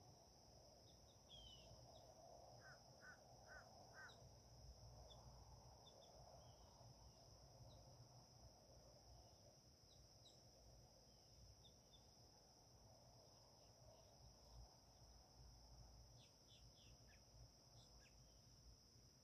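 Faint birdsong: a quick run of four short chirps about three seconds in, and scattered small high chirps throughout, over a steady high-pitched whine.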